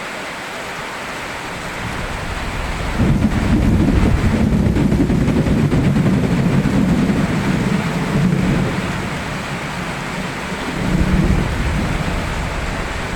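Thunder rumbling over steady rain: a long low roll begins about three seconds in, and a second, shorter swell comes near the end.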